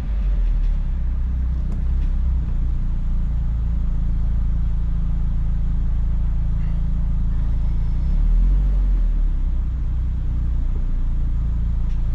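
2004 Mazdaspeed Miata's turbocharged four-cylinder with a Flyin' Miata cat-back exhaust, running at low, steady revs: a deep, even exhaust drone that swells slightly near the end.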